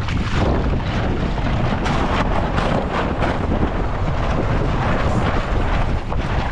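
Wind buffeting the microphone aboard a Mirror sailing dinghy: a loud, steady rumble with many short gusty surges.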